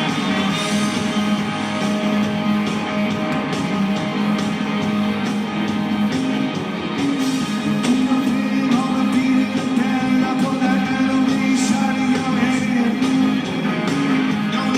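Live rock band playing, with guitars and singing.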